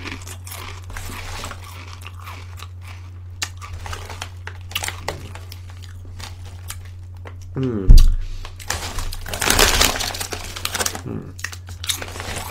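A baked salt-and-vinegar Ritz Crisp & Thin snack being chewed, with small sharp crunching crackles throughout. About eight seconds in there is a short falling vocal sound and a low thump, the loudest moment, followed by a loud rustle lasting a second or two. A steady low electrical hum runs underneath.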